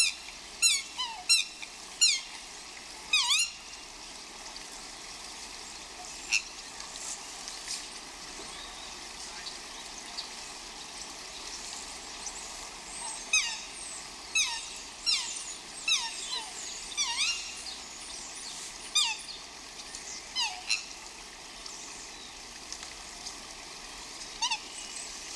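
Birds calling: short, high, steeply falling chirps come in quick clusters with quieter gaps between them. A steady hiss runs underneath.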